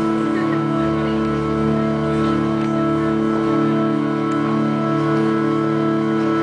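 Live band music: a held, organ-like keyboard chord sustained steadily, with a low bass note under it from about a second in until midway.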